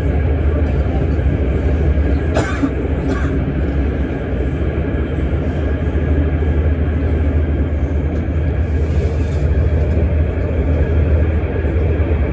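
Passenger train running through a tunnel, heard from inside the carriage: a steady low rumble with constant rolling noise from the wheels on the rails. Two brief sharp clicks stand out about two and three seconds in.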